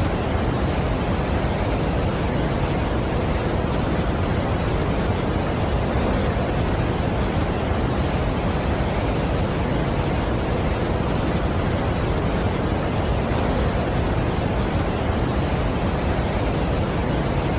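Steady rushing roar of a large waterfall: an even, unchanging wash of noise, weighted toward the low end.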